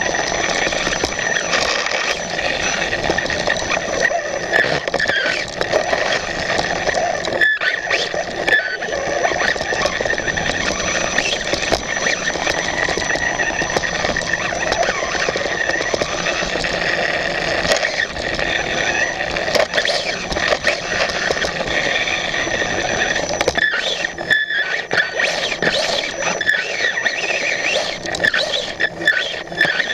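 Radio-controlled motocross bike running, heard from a camera mounted on it: a constant rush of tyre, ground and wind noise with a thin, steady high whine through it. The noise drops out briefly a few times, around a quarter of the way in and again past the three-quarter mark.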